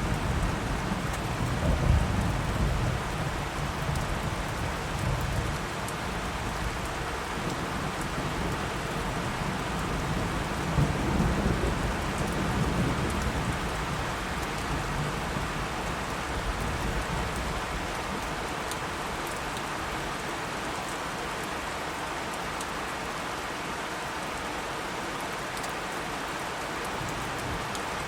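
Steady rain falling, with thunder rumbling low in the first few seconds and again about eleven seconds in, then dying away to rain alone.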